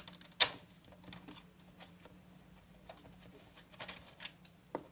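Plastic toy-brick parts clicking and knocking as they are handled and fitted, with one sharper click about half a second in and another near the end.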